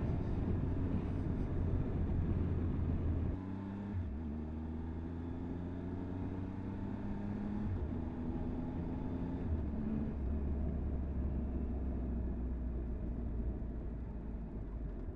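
Motorcycle engine running at road speed under a steady wind rumble. Its note dips about three seconds in, then climbs and steps back down as the throttle and gears change.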